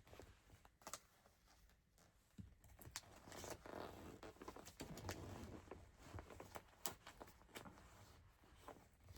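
Faint rustling and scattered light taps of yarn skeins being handled and pushed into a shelf cubby, busiest in the middle.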